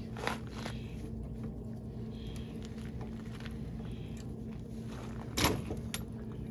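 A few light clicks and one louder knock about five seconds in, from a wrench tightening down a fitting on a hydraulic cylinder, over a steady low hum.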